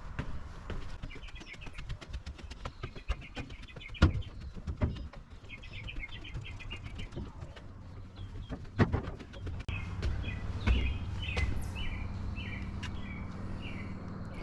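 Footsteps climbing stairs, with irregular sharp knocks, the loudest about four seconds in and again near nine seconds. Small birds chirp in quick trills in several bouts, most continuously in the second half. A low steady rumble sets in near ten seconds.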